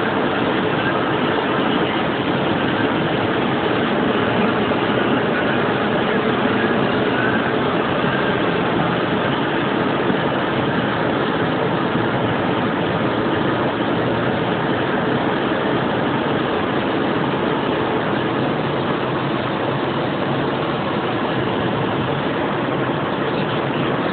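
A car running, heard as a steady, even rushing noise that does not change.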